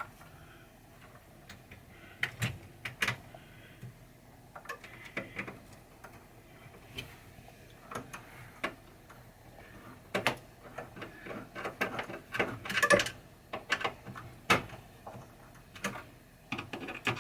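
Irregular clicks, taps and knocks of hand-work on pinball hardware, as screws and washers are fitted to mount the figure's head, coming in clusters with the busiest and loudest stretch about ten to thirteen seconds in.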